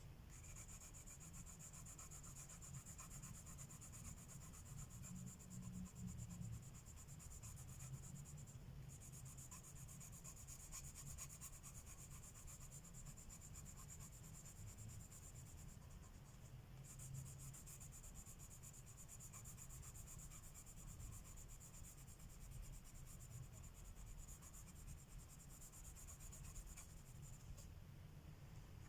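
Colored pencil scratching over paper in steady shading strokes, faint, with two brief pauses, about a third of the way in and just past halfway.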